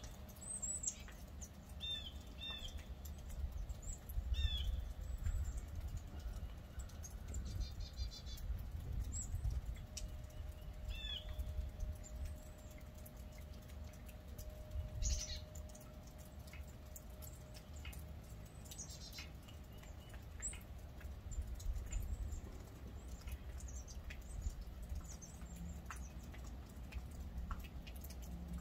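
Small birds chirping outdoors: short, high calls at irregular intervals, more often in the first half, over a low rumble.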